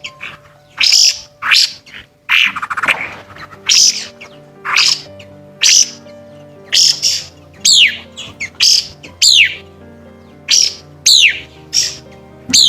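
White-browed laughingthrush calling over and over: a steady series of short, loud, shrill notes, one to two a second, several of them sweeping steeply down in pitch. Soft sustained music tones play underneath.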